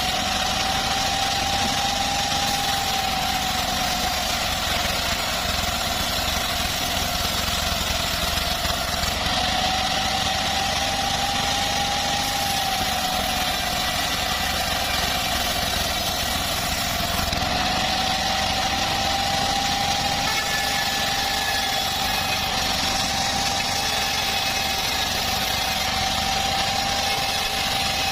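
Homemade bandsaw sawmill running with a steady engine-driven hum and whine, its pitch sagging slightly a few times.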